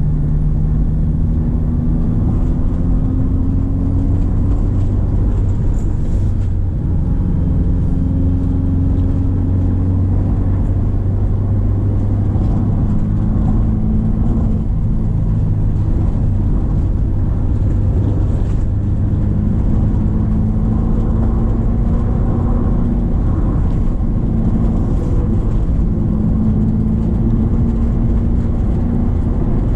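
Subaru Impreza XV's 2.0-litre boxer four-cylinder engine pulling uphill under load, its pitch climbing slowly and dropping back several times as the revs rise and fall, over a steady low rumble.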